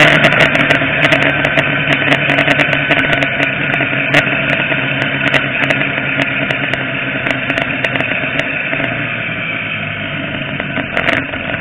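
Motorcycle engine running steadily under way, heard from on the bike with wind noise and scattered clicks on the microphone, slowly getting a little quieter.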